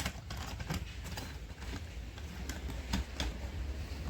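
Plastic toy vehicles being handled and set down: a few scattered light clicks and knocks over a low steady hum.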